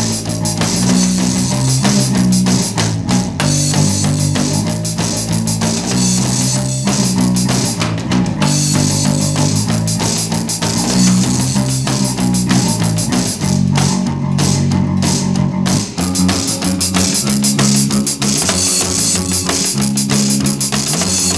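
A rock band playing an instrumental passage: drum kit with cymbals and bass drum, electric guitar and a moving low bass line, with no singing.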